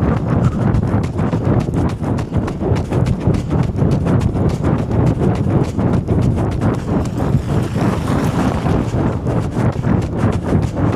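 A runner's footsteps striking the ground in a steady, quick rhythm during an uphill repeat, picked up by a camera carried on the run, over a steady low rumble.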